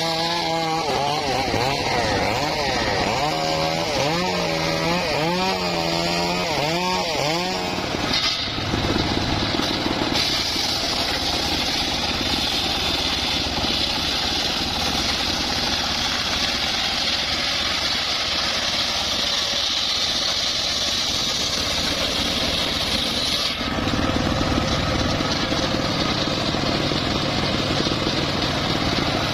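Homemade engine-driven circular sawmill running. For the first eight seconds the engine's pitch rises and falls. Then the blade cuts into the log with a steady, high, hissing saw noise over the engine.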